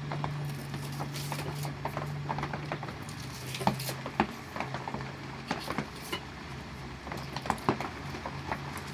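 Rain dripping and pattering in irregular light taps over a steady low hum.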